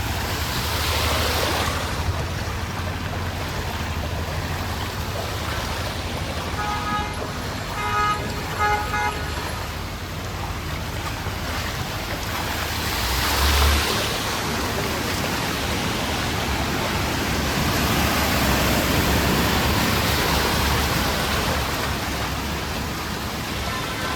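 Flooded city street ambience: a steady wash of traffic and water noise, with a vehicle horn beeping in a quick run of short toots about seven to nine seconds in. Vehicles push through the water with a passing swell of noise about thirteen seconds in and again near twenty seconds.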